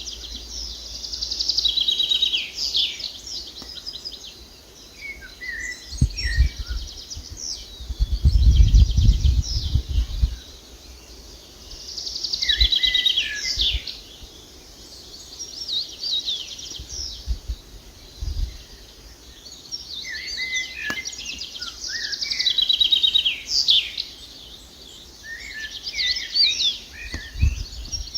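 Songbirds singing repeated short, high trilling phrases, coming in bouts every few seconds. A low rumble, the loudest sound here, rises for a few seconds about a quarter of the way in, with shorter ones later.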